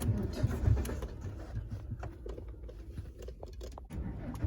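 Car engine being cranked by the starter motor without catching: a repeated low churning that fails to start the engine.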